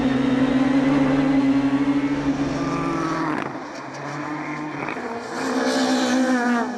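Peugeot 306 Maxi rally car's four-cylinder engine running hard at high revs. It drops off sharply about three and a half seconds in, then picks up again and falls away near the end.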